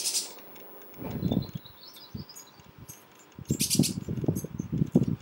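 High, thin bird chirps and a brief quick twitter a little past the middle, over repeated low rumbling bumps that are louder in the second half.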